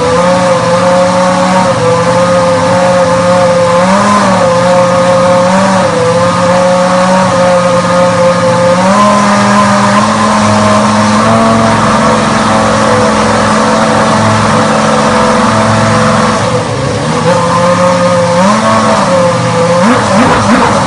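A 2001 BAR Honda Formula 1 car's V10 engine runs steadily at a held speed. It gets brief small throttle blips about 4 and 6 seconds in and again near the end. Its pitch steps up slightly about 9 seconds in and dips briefly just past 16 seconds.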